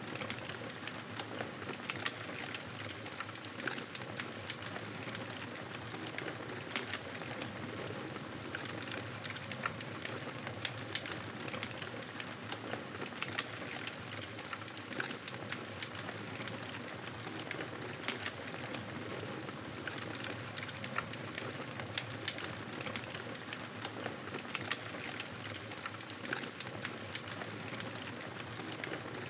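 Campfire burning: a steady hiss with frequent, irregular sharp crackles and pops from the wood.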